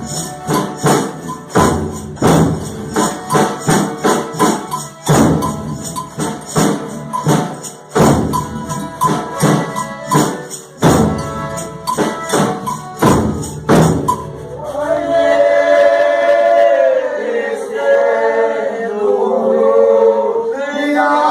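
Folia de Reis folk music: a tambourine and percussion beat out a steady rhythm, then about two-thirds in the percussion drops out and several voices sing long held notes in harmony.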